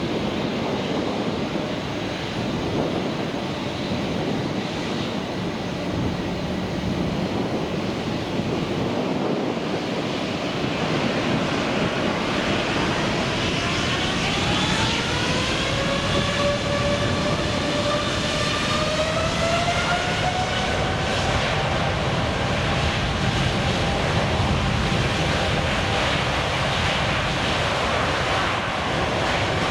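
Jet airliner engines with a steady rushing roar. From about twelve seconds in, a whine rises in pitch, then holds level.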